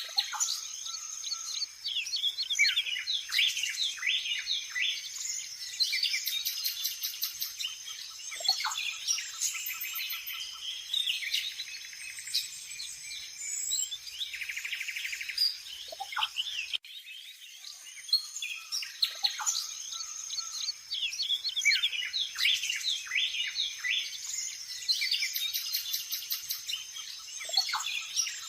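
Many birds chirping and whistling at once, a dense chorus of short calls with a few long falling whistles. The passage starts over after about 17 seconds, as a looped recording would.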